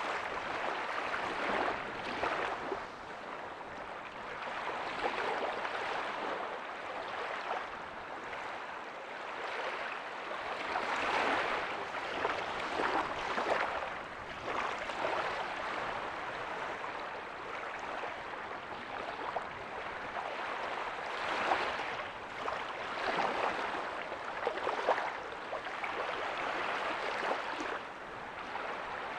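Small ocean waves breaking softly on a beach: a steady wash of surf that swells and eases every few seconds, with little low rumble.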